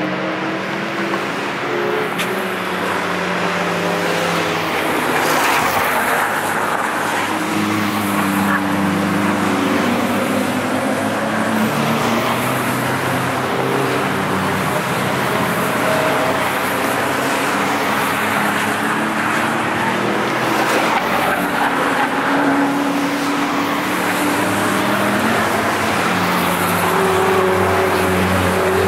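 Several cars driving past at speed one after another, their engines rising and falling in pitch as they go through the gears and pass, with no break between them.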